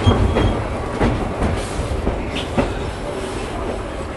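Rumble and clatter of a heritage train's wooden carriage running on the rails, with the wheels clicking over rail joints and several sharp knocks.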